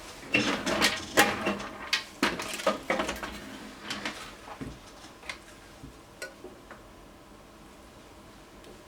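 Small metal tools and parts clinking and clattering while being handled on a workbench during capacitor replacement on a circuit board. The run of sharp clicks is dense for the first few seconds, then thins to a few scattered ticks.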